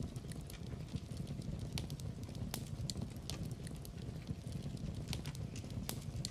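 Wood fire burning in a fireplace: a low steady rumble of flames with scattered sharp crackles and pops, two louder pops about two and a half and six seconds in.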